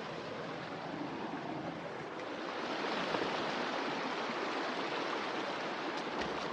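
Creek water running over rocks in a canyon, a steady rush that grows louder about two and a half seconds in.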